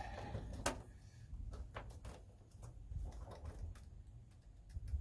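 Scattered light clicks and taps from handling and pressing adhesive sound-deadening mat, with one sharper click under a second in.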